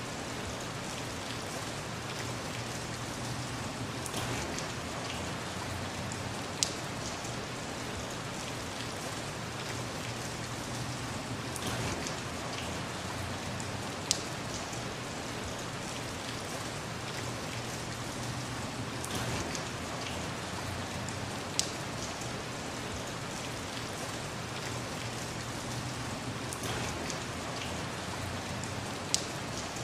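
Steady rain falling, an even hiss, with a single sharp tick standing out about every seven and a half seconds.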